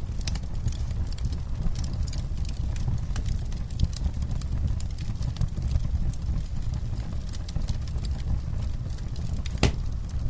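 Wood campfire burning: a steady low rumble under many small irregular crackles and snaps, with one louder pop near the end.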